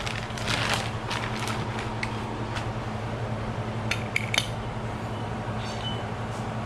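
Metal suspension parts (upper control arms) being handled and turned over: scattered light clinks and knocks, then a quick cluster of sharp, ringing metallic clinks about four seconds in, over a steady low hum.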